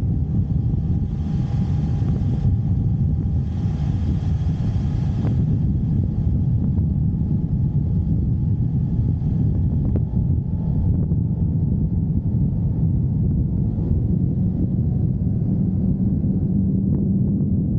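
Motorcycle running on the road, a steady low rumble of engine and wind, with two brief spells of brighter hiss in the first few seconds.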